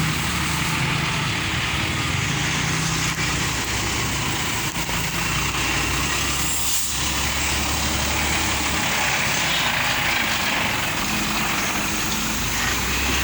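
Diesel engine of a Hino 500 concrete mixer truck running steadily.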